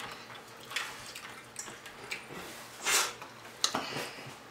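Close-up chewing of fried chicken wings: wet mouth and lip-smacking clicks, with one louder noisy burst about three seconds in.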